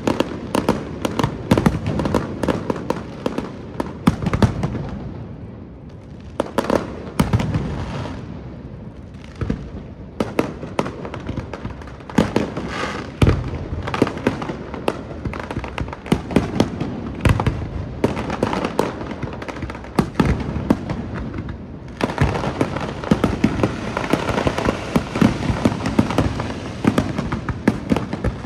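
Aerial fireworks display: a fast run of shell bursts and bangs that thins out for a few seconds early on, then builds into dense continuous crackling with bangs over the last quarter.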